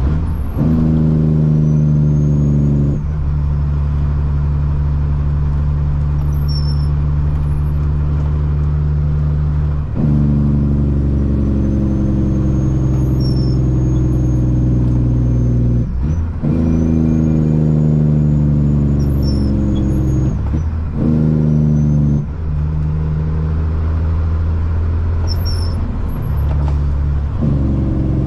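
Caterpillar C-15 diesel engine of a Kenworth truck heard from inside the cab, pulling hard through the gears. The engine note climbs in pitch, then breaks and drops at each of several gear changes of the automated transmission.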